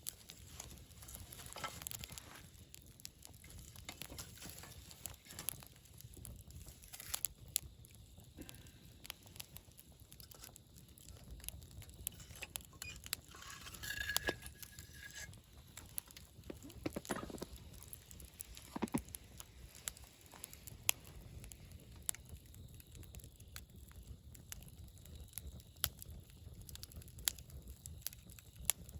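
Wood campfire crackling, with frequent irregular sharp pops over a low rumble of flames. A brief high whistling tone comes about halfway through.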